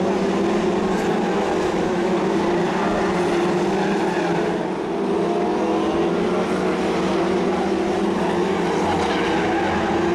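Several BriSCA F2 stock cars racing, their engines running hard together in a steady, dense drone that eases slightly about five seconds in.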